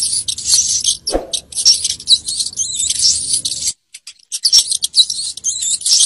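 Rats squeaking: rapid, high-pitched squeaks one after another, with a short break about four seconds in.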